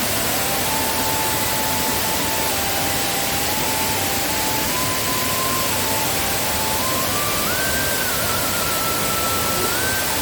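Steady roar of a waterfall in heavy rainy-season flow, an even rushing with no breaks. A faint thin melody of held notes steps up and down over it.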